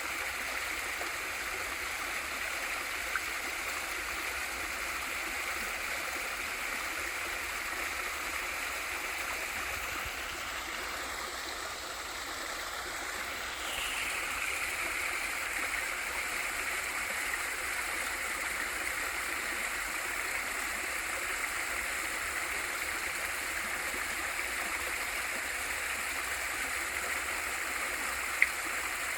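Waterfall in a mountain valley stream: a steady, even rush of falling and flowing water. It turns a little quieter for a few seconds around the middle, then comes back. A single sharp click sounds just before the end.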